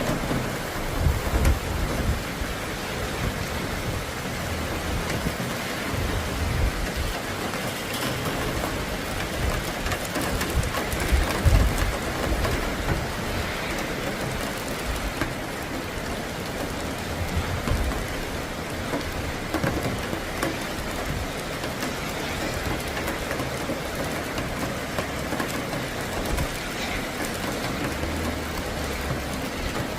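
Steady rain falling during a thunderstorm, with low rumbles of thunder coming and going several times.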